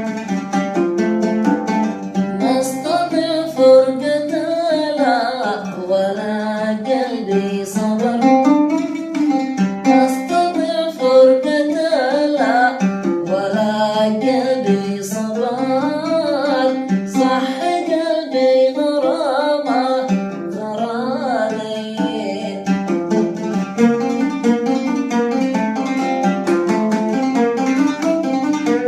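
Instrumental passage of an Arabic song: a plucked string instrument plays a winding, ornamented melody over a steady low accompaniment.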